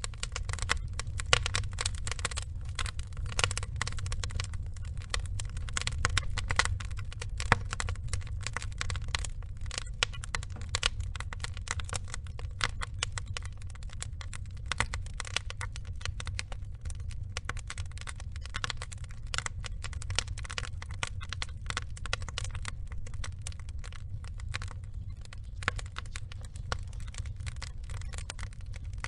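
Wood fire of burning logs crackling and popping irregularly over a low steady rumble, with a few louder pops in the first several seconds.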